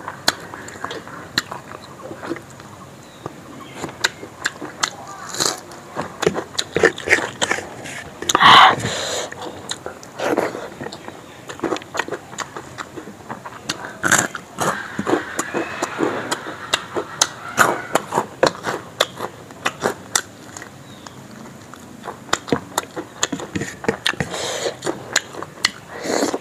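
Close-miked eating: wet chewing and lip smacking of rice and chicken curry eaten by hand, with many sharp mouth clicks throughout. A louder, longer noise comes about eight seconds in.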